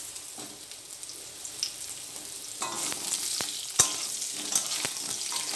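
Potato and papaya pieces sizzling in hot mustard oil in a kadai as a metal spatula turns them, knocking sharply against the pan. The sizzle grows louder about two and a half seconds in, and the loudest knock comes a little past the middle.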